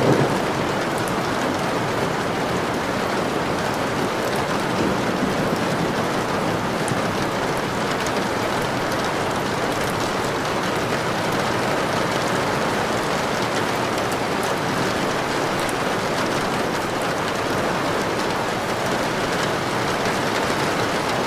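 Steady heavy rain falling on a surface, an even hiss with scattered droplet ticks, as the tail of a thunder rumble dies away right at the start.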